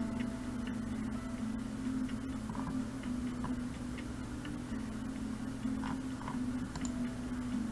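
Steady low electrical hum, likely from the recording computer, with a few faint scattered clicks like a computer mouse being clicked.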